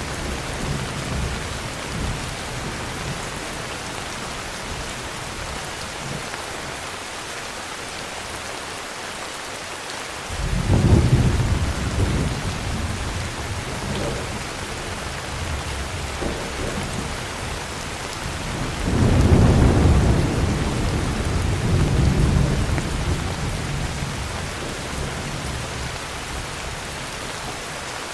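Heavy rain falling steadily with rolls of thunder: the tail of one rumble fades at the start, a loud low rumble breaks in about ten seconds in, and a second, longer one swells about nineteen seconds in and slowly dies away.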